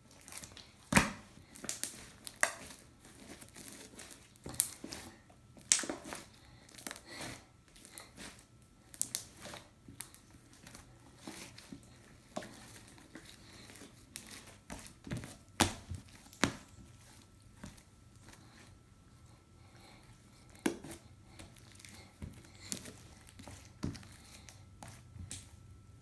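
Stretchy slime being worked by hand, giving off irregular sharp crackles and snaps, some louder than others.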